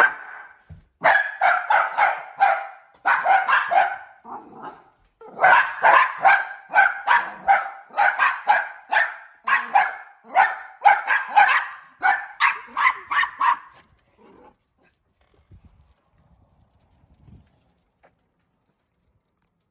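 Dachshunds barking excitedly, a fast run of sharp, high yaps about three a second, which stop about two-thirds of the way through.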